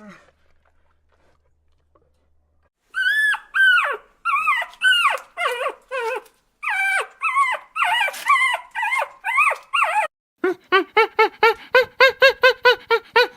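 A dog whining and yelping: after about three seconds of near silence, a run of high, arching whines, then a fast series of short yelps, about four a second, starting near the end.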